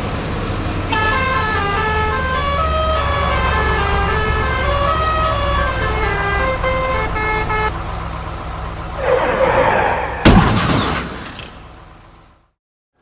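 Cartoon truck engine rumbling under a short electronic melody, then a rushing whoosh and a sharp crash about ten seconds in that fades away: a vehicle accident sound effect.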